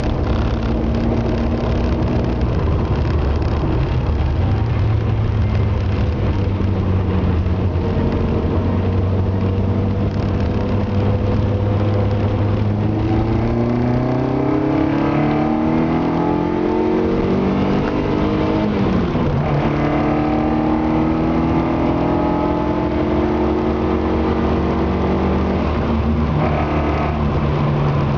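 Ford Anglia's swapped-in 2.0 Zetec four-cylinder engine running while warming up. It holds a steady speed, then the revs climb slowly, fall back sharply about two-thirds of the way in, rise again and hold, dipping briefly near the end.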